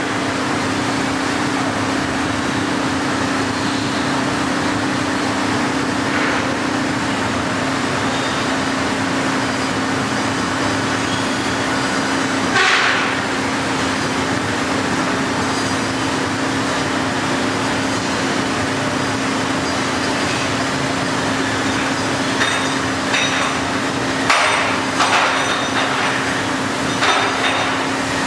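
Heller CNC four-roll hydraulic plate bending roll running, its hydraulic unit giving a steady hum with a constant low tone. A knock comes about halfway through, and a few more short knocks and clanks come near the end.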